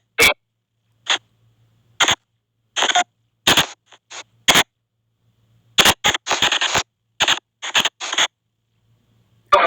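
Spirit-box app (SP White Noise box) on a phone sweeping: short bursts of hissy white noise and sound fragments cutting in and out, with silent gaps between, about a dozen bursts and a tight run of them in the second half. The gating comes from the app's noise-reduction setting, which clips out the steady noise.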